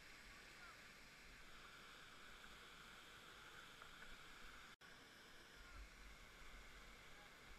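Faint, steady rush of river water, with a momentary dropout to silence a little past the middle.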